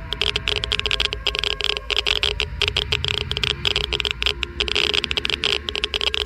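Geiger counter clicking rapidly and irregularly, many clicks a second bunching into dense clusters, over a steady low hum. The fast, uneven clicking is a high count rate of ionizing particles.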